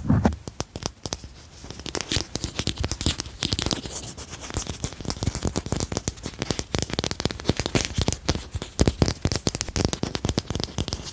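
Fast, irregular tapping and scratching on a hard object for ASMR: a dense run of small sharp clicks that thickens after the first couple of seconds.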